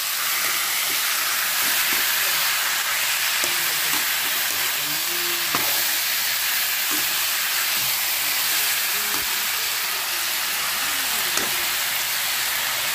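Banana flower and potatoes in masala frying in oil in a metal kadai, sizzling steadily while a slotted spatula stirs and scrapes through the pan, with a few sharp knocks of the spatula against the pan.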